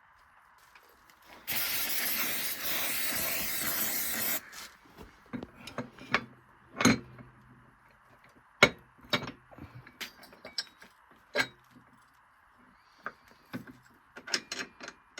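An aerosol degreaser can sprays in one steady hiss for about three seconds, cleaning a part during reassembly of a scooter's CVT variator. After it come scattered clinks and knocks of metal parts and tools being handled.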